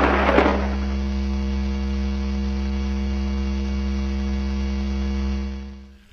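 A noisy crash dies away in the first second, leaving a steady electrical mains hum, a low buzz with many overtones, that fades out near the end.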